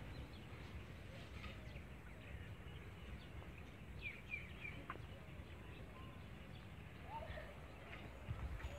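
Faint scattered bird calls, short chirps and a few brief whistled glides, over a steady low rumble of wind or handling noise on the microphone.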